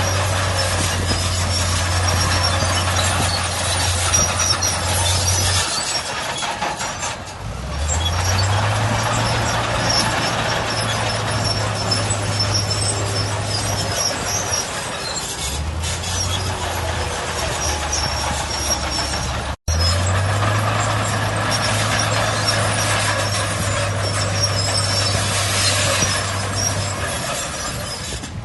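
Heavy diesel earthmoving machinery running and working: a deep engine drone that stops and picks up again several times, over steady mechanical clatter and hiss. The sound cuts out for an instant about two-thirds of the way through.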